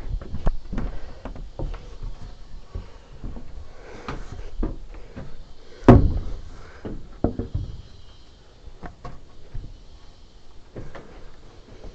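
Irregular wooden knocks and clunks of timber and hand tools being handled, with one loud thud about six seconds in.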